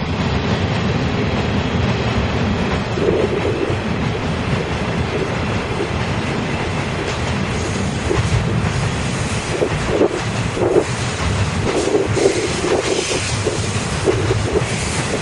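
Freight train wagons rolling past close by: a loud, steady rumble of steel wheels on the rails with repeated clickety-clack clatter.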